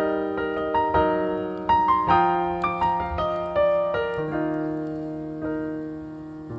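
Background piano music: a slow melody of struck notes that ring out and fade, the last chord dying away near the end.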